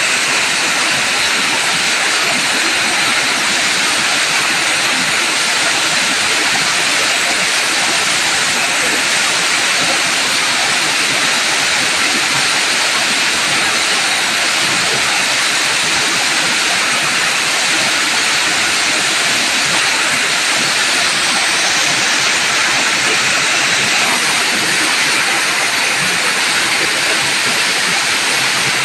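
Waterfall rushing steadily, a loud, even hiss of falling water.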